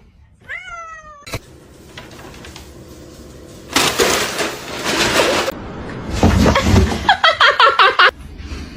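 Cats meowing and yowling: one drawn-out meow about half a second in, a loud noisy stretch in the middle, then a run of quick, choppy yowls near the end.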